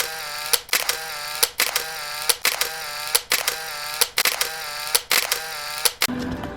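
A camera shutter clicking over and over, about two clicks a second, each click followed by a brief whirring tone. It is the kind of shutter sound effect used in photo montages.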